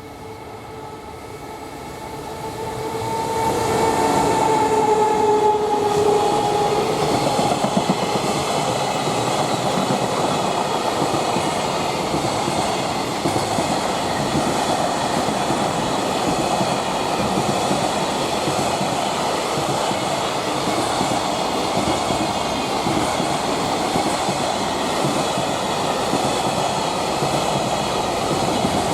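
Freight train approaching and passing close by. As it arrives, a steady two-note tone sags slightly in pitch over a few seconds, then the long string of wagons rolls past with a continuous rumble of wheels on rails.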